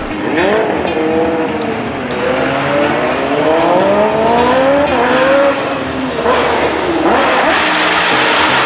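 Motor vehicle engines revving, their pitch rising and falling in several overlapping sweeps, with a noisier rush near the end.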